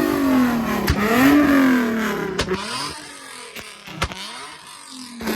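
A car engine revving up and down repeatedly, about one rev a second, fading away about halfway through, with sharp clicks scattered through it.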